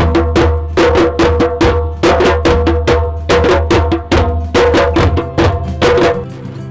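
A community drumming group playing drums and percussion together in a fast, steady rhythm of about four to five beats a second, dying away near the end.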